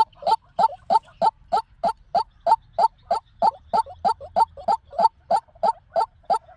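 White-breasted waterhen calling over and over: a steady, rhythmic run of short, harsh, pitched notes at about three a second.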